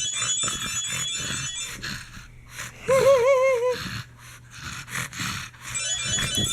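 A pug snorting and panting in short noisy puffs, with a short wavering pitched tone about halfway through. Near the end, a chirping, warbling sound effect plays from a phone speaker.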